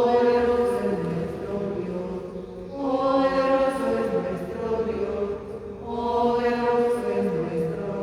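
Voices singing a slow hymn in church without amplification, long held notes in phrases that swell about every three seconds.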